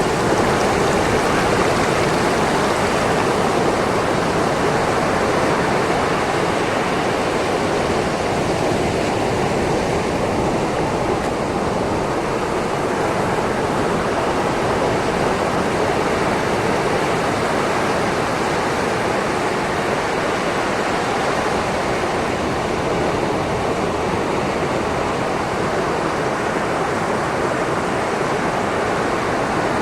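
Sea waves washing over a shoreline: a steady rush of surf with no distinct breaks between waves.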